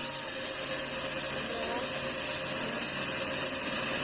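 Sawmill running, a steady, even hiss with a faint low hum underneath.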